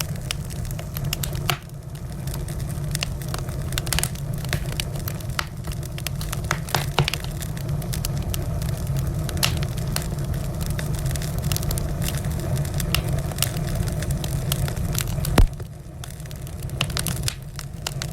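Wood fire burning in a fireplace: a steady low rumble and hiss of the flames with many irregular sharp crackles and pops, one loud pop near the end.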